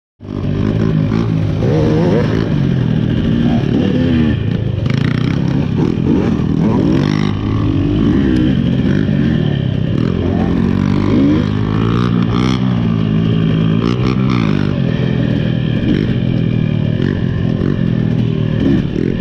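A KTM 300 XC two-stroke dirt bike engine revving up and down over and over while being ridden, with a few sharp clattering knocks.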